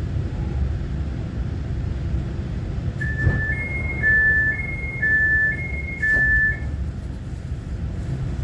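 Steady low rumble inside a Taiwan Railway EMU900 commuter train, with an electronic two-tone chime about three seconds in that alternates a lower and a higher beep three times. There is a knock near its start and another near its end.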